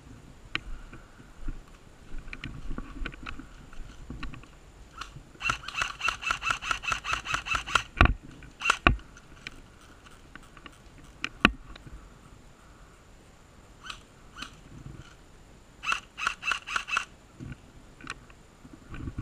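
Airsoft gun firing on full auto: two rapid bursts of about ten shots a second, with a few single sharp cracks between them.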